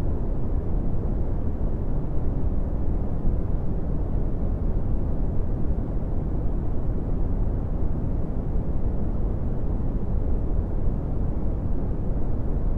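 Brown noise: a steady, even rumbling hiss weighted heavily toward the low end, with almost nothing above the mids and no change in level.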